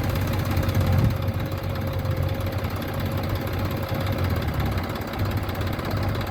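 Tractor diesel engine idling steadily with a low, even rumble.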